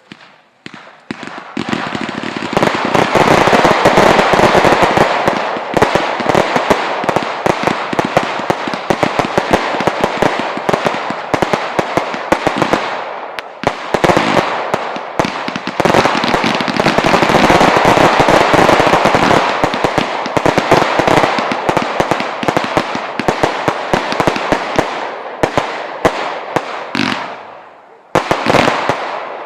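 Fireworks display: a loud, dense stream of rapid crackling and popping from many shells at once, easing briefly about halfway, dropping away near the end, then a few more cracks.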